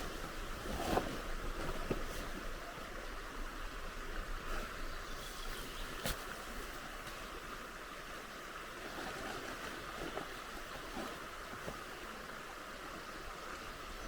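Steady rush of flowing river water, with a few faint sharp clicks, one about six seconds in.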